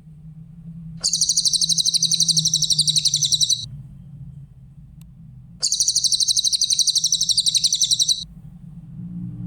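Cililin bird song: two high-pitched rapid trills of evenly repeated notes, each about two and a half seconds long, a couple of seconds apart. A steady low hum runs underneath.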